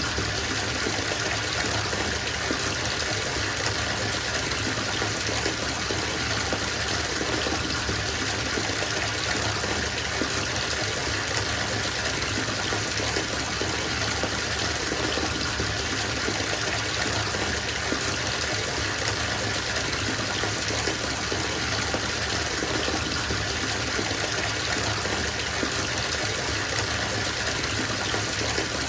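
Bathtub filling from a running tap: a steady gush of water splashing into the tub.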